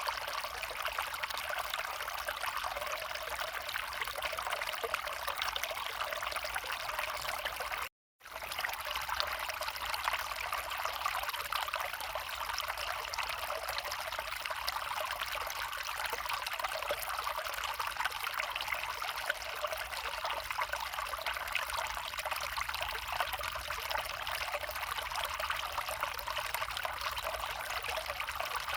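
Small brook running over stones, a steady trickling and babbling of shallow water; the sound drops out for a moment about eight seconds in.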